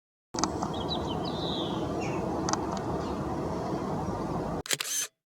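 Outdoor ambience with a steady low rumble and a few short high house sparrow chirps in the first two seconds. Near the end, a sharp double-click camera shutter sound.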